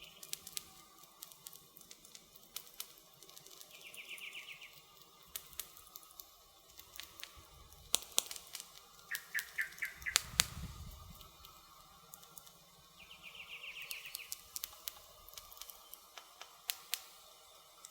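Wood campfire crackling, with irregular sharp pops and one louder pop with a low thump just past halfway. A bird sings short rapid trills three times over it.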